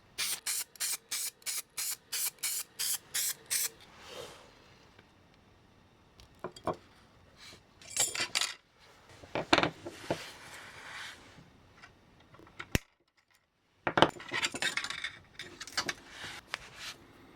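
Hand work on small model-train parts: a quick run of hissing strokes, about three a second, over the first few seconds, then scattered small clinks and scrapes.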